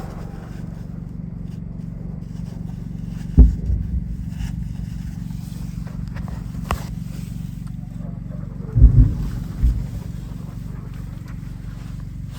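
Combat fire over a steady low rumble. One loud blast about three seconds in, then a quick cluster of several blasts a little before the end.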